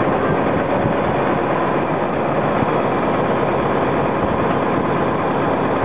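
JR 209-series electric train pulling away from the platform, its running and wheel-on-rail noise a steady, loud rush.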